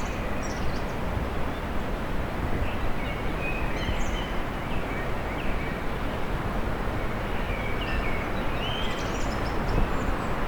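Small birds chirping in short, scattered calls over a steady hiss and rumble of city traffic.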